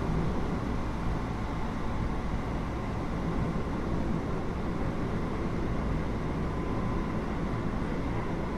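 Interior running noise of a Keio 8000 series electric train car in motion: a steady rumble of wheels and running gear, with a faint high steady tone in the background.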